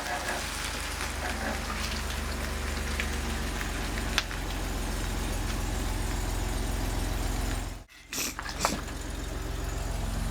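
Vehicle engine idling, a steady low drone. A faint click comes about four seconds in, and the sound cuts out for a moment near eight seconds before the drone returns.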